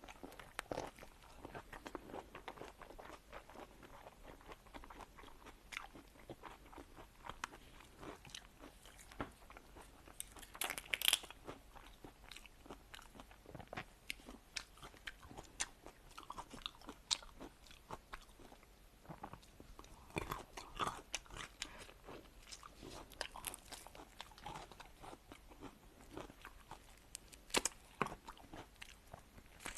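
Seafood being bitten and chewed close to the microphone: wet chewing broken by irregular sharp crunches, with the loudest crunch about eleven seconds in.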